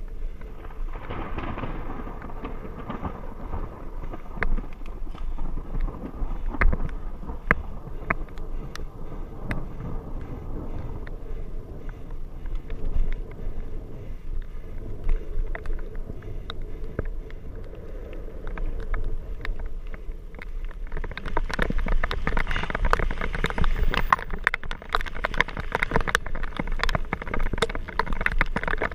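Rain during a thunderstorm, with drops hitting the camera in many sharp ticks over a steady low rumble. The rain grows heavier and hissier about three-quarters of the way through.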